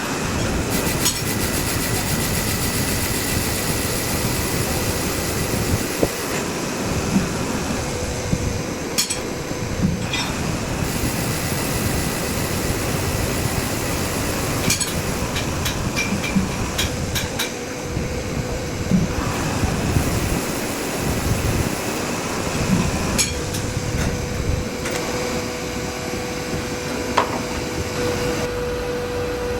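Metalworking shop noise: machinery running steadily with a faint constant hum, and scattered sharp metal clinks and knocks throughout.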